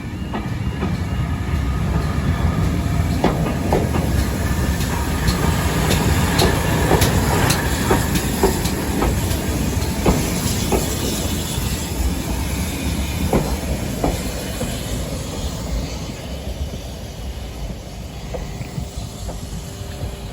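Steam tank locomotive No. 1450 and its train rolling past over the level crossing: a low rumble with wheels clicking over the rail joints. It is loudest a few seconds in and dies away over the last few seconds.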